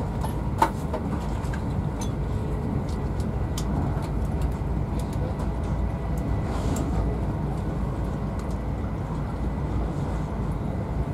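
Class 43 HST (InterCity 125) train running, heard from inside a first-class Mark 3 coach: a steady low running noise of wheels on rails, with one sharp click about half a second in.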